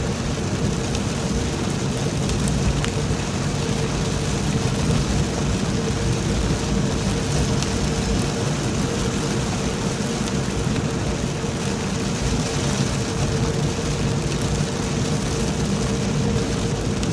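Heavy rain falling steadily, with a constant low hum and rumble underneath.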